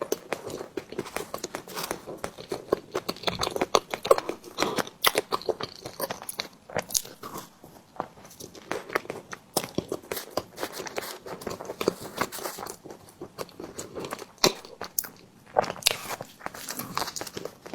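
Close-miked eating of a tiger skin dessert: steady biting and chewing, dense with small irregular clicking and smacking mouth sounds.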